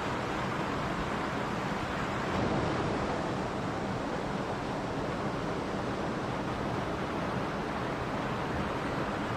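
Mountain stream flowing, a steady even rush of water with a slight swell about two seconds in.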